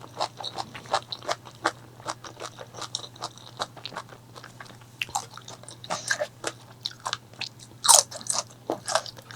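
Close-miked biting and crunchy chewing of crispy fried food: rapid irregular crunches, with a louder bite about eight seconds in, over a faint steady low hum.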